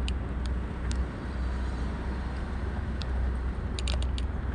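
A car driving at road speed: a steady low rumble of engine and tyre noise, with a few faint short clicks about a second in, three seconds in and near the end.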